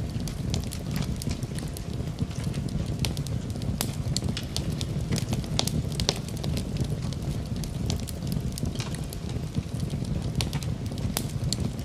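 Fire burning in a fireplace: a steady low rumble of the flames with many small, irregular crackles and pops.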